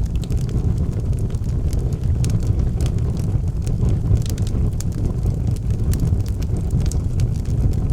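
Wood fire burning in a fireplace: a steady low rumble from the flames, with frequent small crackles and pops from the burning logs scattered throughout.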